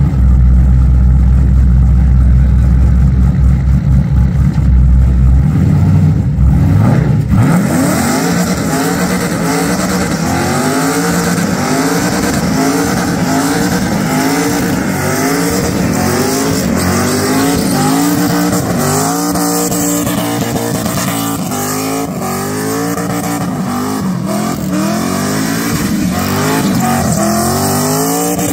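A car engine, first a heavy low rumble, then from about seven seconds in revved up and let back over and over, about once a second, over a steady hiss of tyre noise, as in a burnout.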